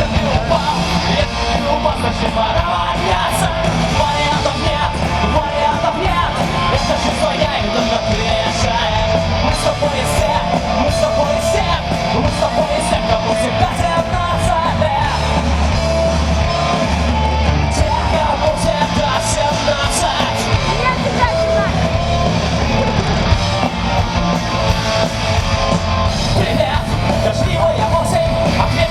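Rock band playing loud, heavy rock music live, with electric guitar and a voice yelling over it.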